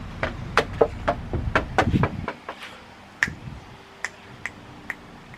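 A series of sharp clicks or taps, about a dozen in quick irregular succession over the first two seconds, then four more spaced apart after a pause.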